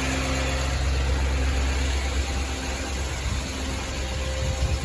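6.6-litre Duramax V8 diesel of a Chevrolet C5500 bucket truck idling steadily, with the PTO engaged.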